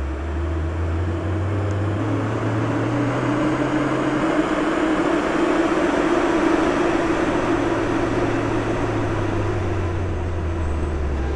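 Moscow Metro train running, its electric traction motors giving a low whine that steps up in pitch over the first few seconds and steps back down near the end as it slows, over a steady wheel-and-rail rumble.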